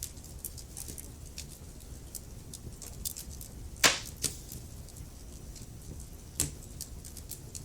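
Wood fire crackling in a fireplace: a steady low rumble under frequent small pops, with two louder snaps about halfway through and another near the end.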